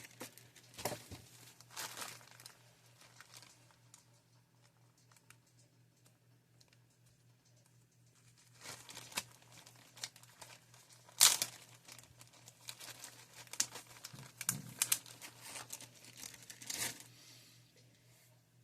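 Crinkling, rustling and small clicks of plastic action-figure parts being handled and worked apart, quieter for a few seconds in the first half, with one sharper click past the middle.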